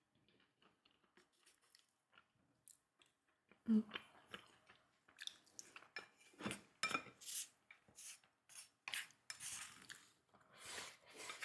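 Eating utensils clicking and scraping against dishes, with chewing. Faint small clicks at first, then a sharp knock nearly four seconds in, followed by a steady run of clinks and scrapes.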